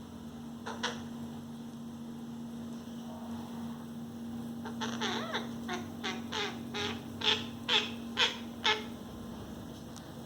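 Pet parrot calling: one short squawk, then after a pause a quick run of about ten short, sharp squawks, roughly two to three a second, the last four loudest.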